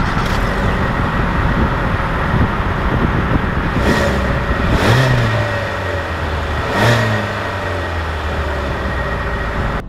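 Car engine running loudly close by, with three brief revs about four, five and seven seconds in.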